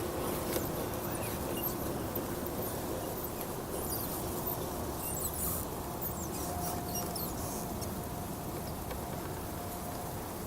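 Radio-controlled scale Hilux crawler's small electric motor and gearbox whining faintly at crawl speed, over a steady hiss. The whine steps up in pitch about six seconds in, and short high squeaks and chirps come through it.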